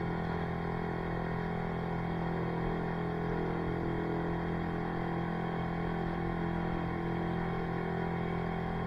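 An engine or motor running steadily at constant speed: an even hum with several fixed tones that neither rise nor fall.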